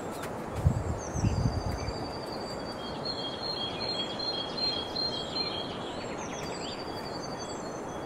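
A bird singing a run of short, repeated whistled notes over a steady low background rumble, with a few low thuds about a second in.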